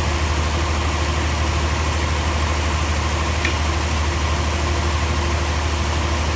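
Heavy engine running steadily at idle, with a faint click about three and a half seconds in.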